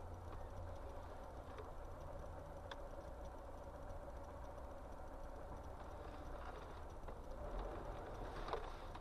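Steady low rumble of a car driving, as picked up by a dashcam, with a few faint clicks.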